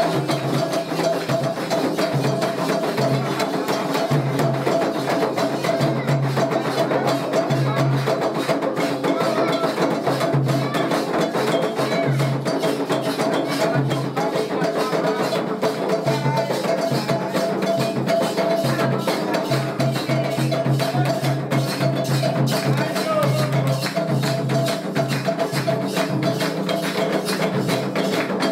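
Candomblé ritual music for Xangô: hand drums keeping a steady repeating pulse with a bell or wood-block pattern and rattles, and voices singing over them.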